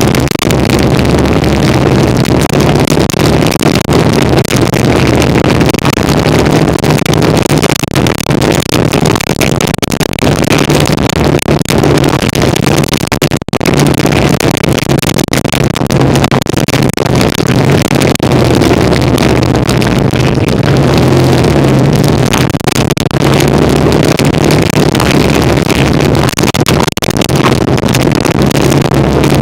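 1975 Kawasaki KZ400's parallel-twin engine running steadily while the motorcycle is ridden, its pitch shifting slightly a few times with speed.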